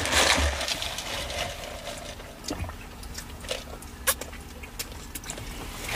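Close-up chewing and mouth sounds of people eating a burger and a torta, with a rushing noise in the first second and a few sharp clicks.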